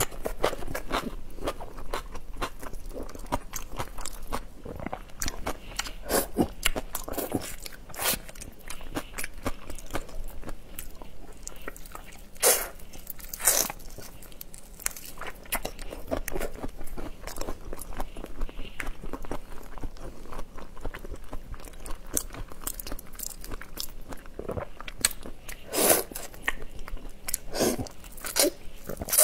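Close-miked biting and chewing of whole raw marinated shrimp: wet chewing with a steady run of crunches and crackles, and a few louder snaps about halfway through and near the end.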